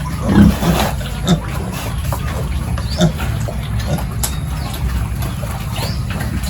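Pigs grunting in short, scattered sounds over a steady low rumble.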